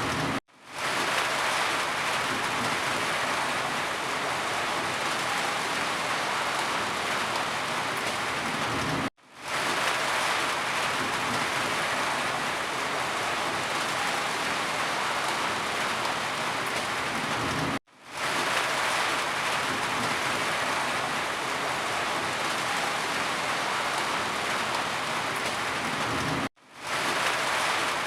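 Steady rain falling, a dense even hiss. It cuts out to silence for an instant about every nine seconds, four times, and swells straight back in, as where a recording is looped.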